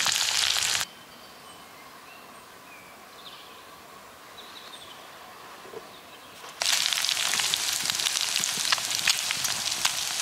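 Food sizzling and crackling as it fries in a pan. The sizzling stops abruptly under a second in, leaving faint bird chirps, and returns just as abruptly about six and a half seconds in.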